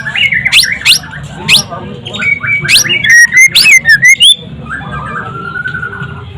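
White-rumped shama (murai batu) singing a fast, varied song of whistles and sweeping notes. About three seconds in comes a run of loud rapid notes, then a longer, lower held phrase near the end.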